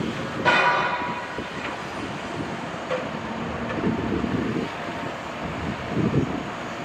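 Heavy construction machinery working, with low rumbling and clanking. A loud metallic clang rings briefly about half a second in.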